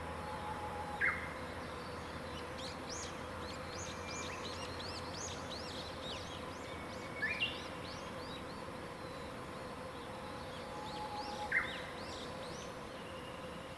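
Birds singing in a morning chorus: many short high chirps and trills overlapping, with a louder short rising call three times, the last near the end the loudest. A faint steady hum runs underneath.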